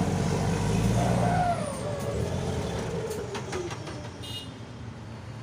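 Heavy diesel truck running loud through its exhaust, then dropping away with a falling pitch as it fades.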